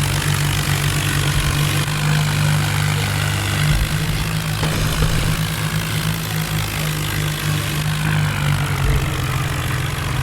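Tractor diesel engine running steadily with a deep, low drone.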